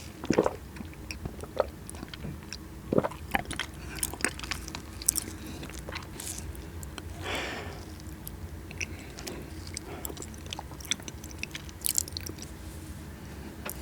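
Close-miked eating of cheesecake: soft chewing and biting with scattered wet mouth clicks and smacks, and one longer soft hushing sound about halfway through.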